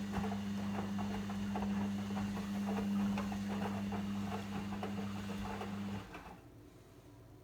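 Logik L712WM23 washing machine humming steadily with water gurgling and crackling through it, cutting off suddenly about six seconds in.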